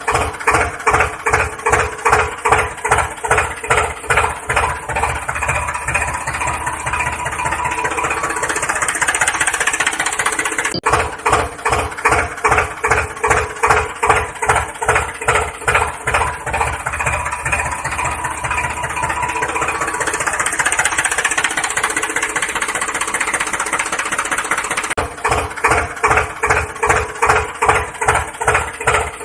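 Small engine chugging with a regular putt-putt beat of about two to three strokes a second. It picks up into a smoother, faster run twice, once about a third of the way in and again about two thirds in, and settles back into the slow beat near the end.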